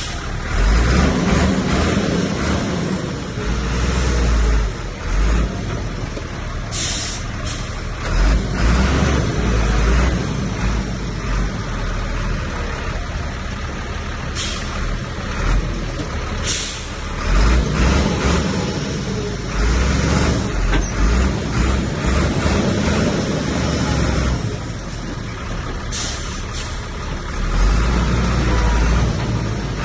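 Bulldozer's diesel engine working under load, its rumble rising and falling as it pushes, with short bursts of hiss several times.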